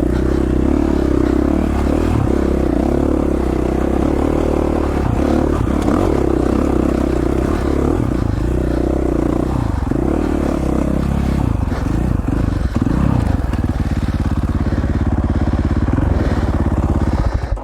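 KTM 450 XC-F's single-cylinder four-stroke dirt bike engine running under load on a rough trail, revs rising and falling, then settling steadier and lower before it cuts off near the end.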